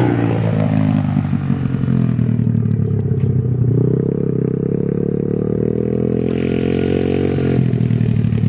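125cc pit bike engine under way as it is ridden. It runs low and uneven at first, rises in pitch about three and a half seconds in and holds, then drops back near the end.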